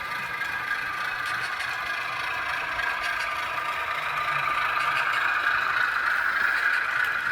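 Model diesel engine sound from an HO scale Baldwin AS-16's Soundtraxx Blunami DCC sound decoder, played through the locomotive's small onboard speaker: a steady running sound, thin with little low end, growing a little louder from about four seconds in.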